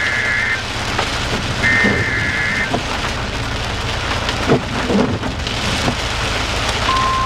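NOAA Weather Radio alert signal over heavy rain drumming steadily. Two of the roughly one-second, two-pitch warbling data bursts that make up the SAME header sound, one ending at the very start and one a couple of seconds in. Near the end the steady single-pitch warning alarm tone begins, announcing a new warning broadcast.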